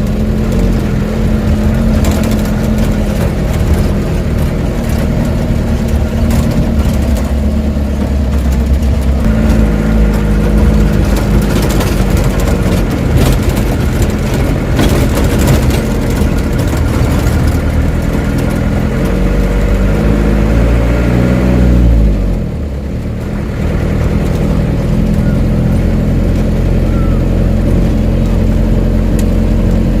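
Heavy diesel engine of a loaded dump truck running steadily, with knocks and rattles through the middle. About two-thirds of the way through, the engine note sweeps down and dips briefly, then settles back to a steady run.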